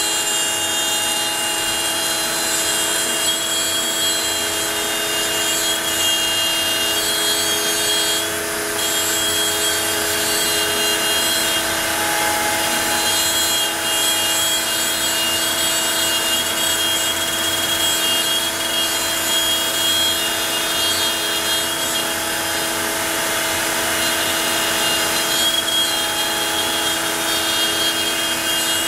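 Onefinity CNC router running steadily with a bit cutting, a constant machine hum with several steady tones over a cutting hiss; the sound briefly eases about eight seconds in.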